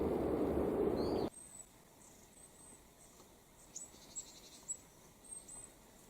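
A loud, steady rushing noise that cuts off abruptly about a second in, followed by a few faint, very high, thin calls of small songbirds, short notes with a falling tail.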